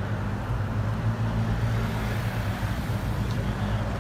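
A car engine idling steadily, with a constant low hum and no revs.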